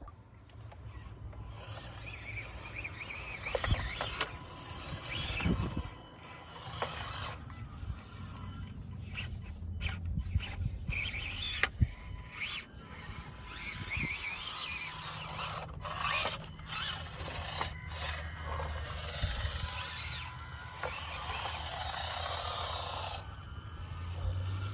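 Axial SCX24 micro RC crawlers' electric motors and gears whining, the pitch rising and falling with the throttle, as the trucks climb over rocks, with scraping and small clicks from tyres and chassis on rock.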